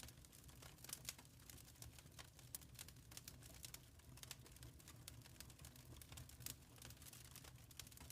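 Wood fire crackling quietly in a fireplace, with many irregular small snaps and pops over a low steady rumble.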